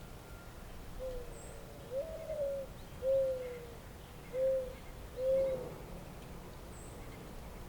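A dove cooing: a phrase of five low, soft coos, the second rising higher and held longer, the last three shorter and falling.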